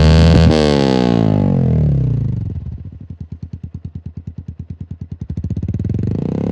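Yamaha FZ150i's single-cylinder engine through a Yoshimura aftermarket exhaust, revved high at the start, then falling back over a couple of seconds to a slow idle with each exhaust pulse heard separately, before picking up again near the end.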